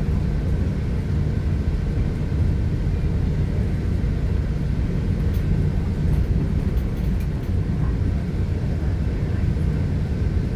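New Mexico Rail Runner commuter train running at speed, heard from inside the passenger car: a steady low rumble from the wheels, track and car body, with a faint steady high whine over it.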